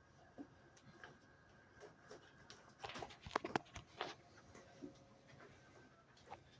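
Faint, scattered clicks and rustles of things being handled, with a quick flurry of sharper clicks about three to four seconds in.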